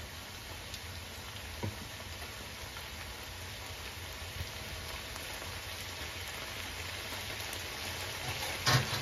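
Beef and chopped tomatoes sizzling steadily in a frying pan as they sauté. There is a light knock about two seconds in and a louder knock near the end.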